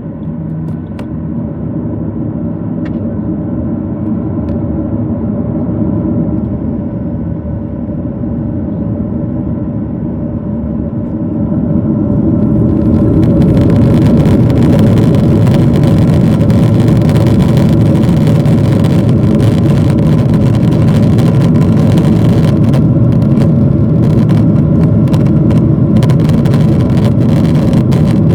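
Boeing 737-800's CFM56-7B jet engines heard inside the cabin, running lower at first and then spooling up to takeoff thrust about 12 seconds in. After that comes a loud, steady rush of engine and airflow noise during the takeoff roll.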